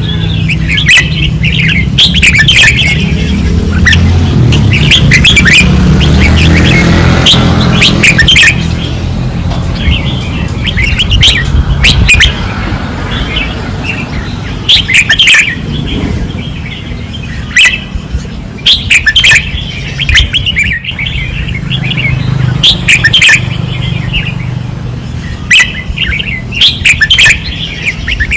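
Red-whiskered bulbul song: short, fast whistled phrases repeated every second or two, over a steady low rumble.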